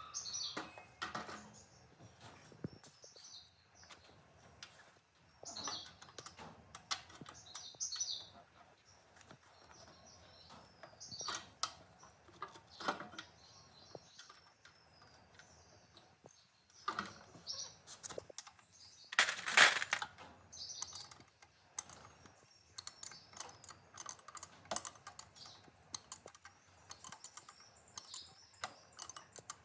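Irregular light clicks and taps of hand tools and small parts being handled on a workbench, with one louder clatter a little before two-thirds of the way through. Birds chirp in the background.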